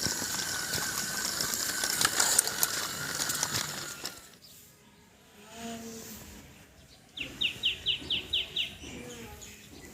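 Small electric gear motors of a toy RC tractor running with a steady whine and fast gear clatter, which stops about four seconds in. Near the end a bird gives a quick run of about eight high chirps.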